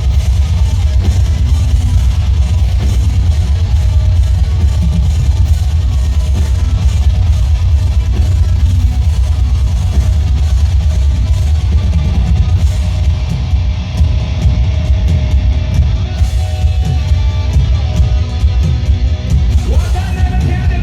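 Live metal band playing an instrumental passage: distorted electric guitars over a drum kit and heavy bass.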